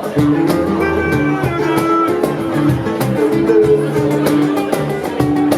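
Live soul band playing an instrumental passage, guitar over bass and a steady drum beat, with no singing.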